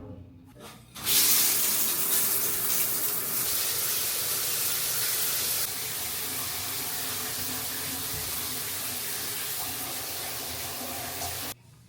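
Water running steadily from a tap, a strong even rush that starts suddenly about a second in, drops slightly in level midway and cuts off abruptly near the end.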